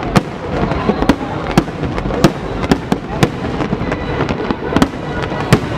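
Fireworks display: sharp bangs at irregular intervals, about two a second, over a continuous rumble of distant bursts and crackle.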